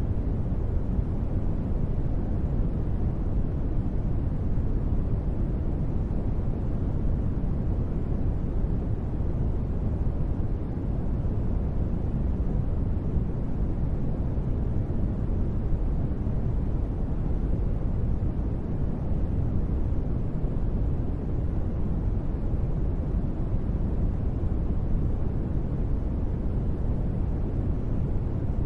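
Steady, deep rushing noise that never changes: a synthetic space-ambience noise bed, which the uploader calls white noise.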